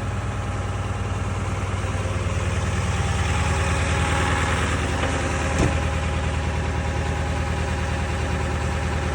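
Early-1999 Ford 7.3 L Power Stroke V8 turbodiesel idling after a cold start, with diesel clatter. It grows a little louder in the middle, and there is a single sharp click about five and a half seconds in.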